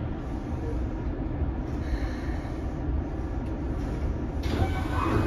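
Keikyu 600 series electric train rolling slowly, heard from inside the car as a steady low rumble of wheels and running gear. About four and a half seconds in, a hiss rises over it.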